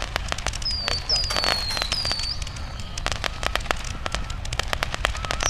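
Small fireworks crackling, with a dense, irregular patter of sharp pops and several short, high whistles that dip slightly in pitch during the first couple of seconds.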